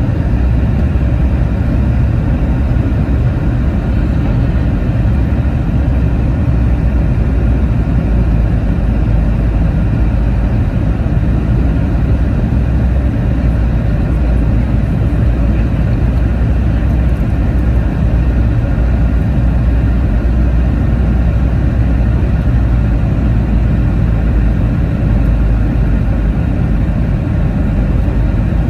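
Cabin noise inside a Boeing 717-2BD airliner: a steady low rumble of engine and airframe noise that holds even throughout, with no rise or fall.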